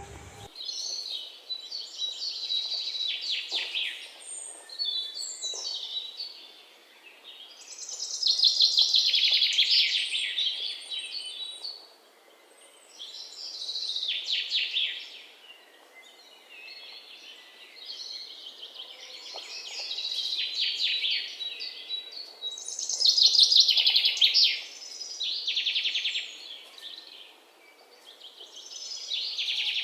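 Birds chirping and singing in repeated bursts of rapid, high chattering phrases every few seconds.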